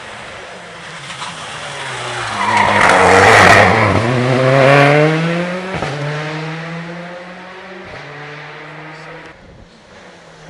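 Rally car coming up at speed and passing close, loudest about three seconds in with a burst of tyre noise. It then accelerates away, its engine note climbing and dropping at two upshifts before fading out.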